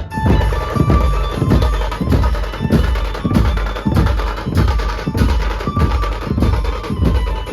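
Dhumal band music: heavy drum beats at about two a second, with short melody notes over them.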